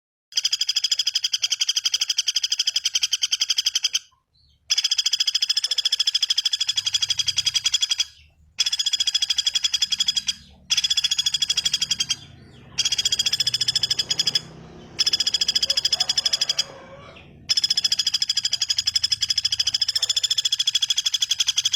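Small songbird giving long, very fast dry trills at a steady high pitch, each one to four seconds long, repeated with short breaks between them.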